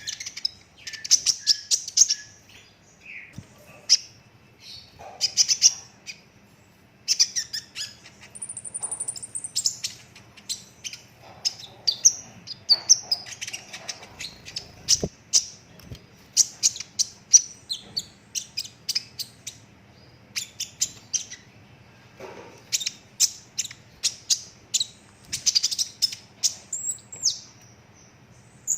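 A kolibri ninja sunbird in green plumage singing continuously: fast runs of sharp high chirps and rattling trills in quick bursts, with one thin, high whistled note about eight seconds in.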